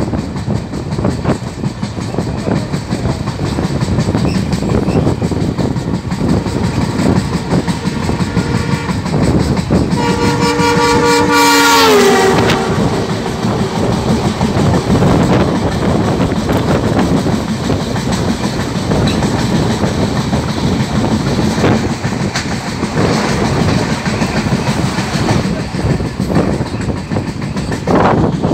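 Steady rumble and wheel clatter of an Indian Railways ICF-coach train running at speed, heard from an open door. About ten seconds in, a horn sounds for about two seconds, its pitch dropping as the oncoming train passes, and the rush of passing coaches follows.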